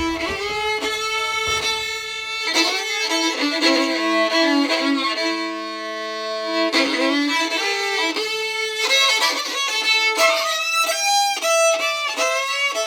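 Solo fiddle playing an old-time Appalachian tune, bowing a moving melody with a second string often sounding alongside it as a drone.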